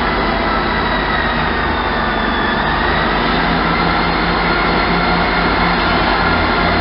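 Class 170 Turbostar diesel multiple unit running: a steady engine-and-transmission drone with a low rumble and faint whining tones above it.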